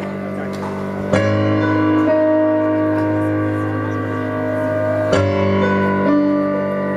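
Keyboard playing a slow instrumental intro of held chords, changing to a new chord about a second in and again about five seconds in.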